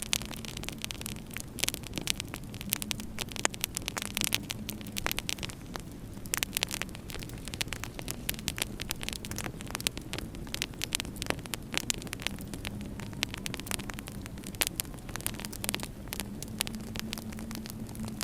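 Fireplace wood fire crackling with irregular sharp pops, over a low steady hum.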